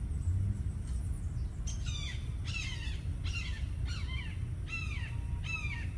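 A bird calling about six times in a row, short harsh calls that each fall slightly in pitch, beginning about two seconds in. A steady low rumble runs underneath.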